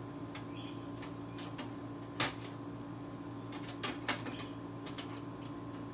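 A few scattered light clicks and knocks as PS3 parts are handled and set down, over a steady low hum.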